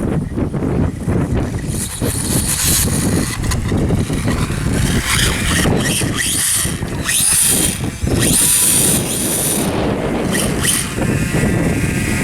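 Battery-powered Reely RC dirtbike riding, its electric motor whining in repeated bursts of throttle along with tyre noise on the ground, over wind rumbling on the microphone.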